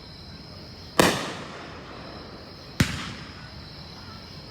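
Fireworks display: two aerial shells bursting with sharp bangs, about a second in and again nearly two seconds later, each followed by a long rolling echo that fades away.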